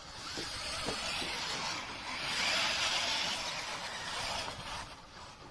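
Toy remote-control monster truck (Monster Jam Grave Digger) driving, a hissing whir of its motor and wheels that swells louder midway and fades near the end.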